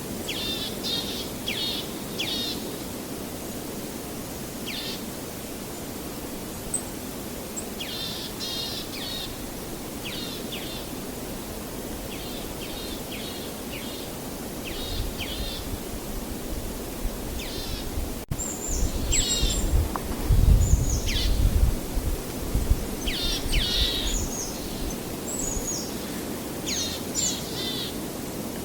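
Small birds chirping in quick runs of rapid notes, again and again, over a steady low rushing noise. About two-thirds of the way through, a louder low rumble swells for a few seconds.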